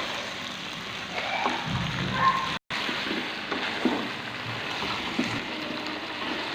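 Chicken pieces sizzling in hot oil and onion–garlic–ginger masala in a pot as they are fried, with a few short knocks from stirring. The sound breaks off for a moment about two and a half seconds in.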